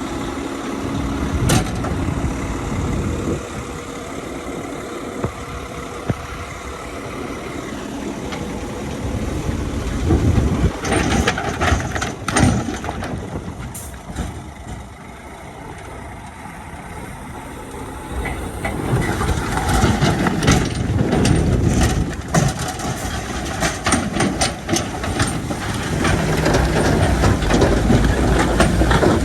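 Heavy diesel earthmoving machinery (a bulldozer and dump truck) running under load, with scattered knocks and clanks. It eases off for a few seconds midway, then works harder and louder again.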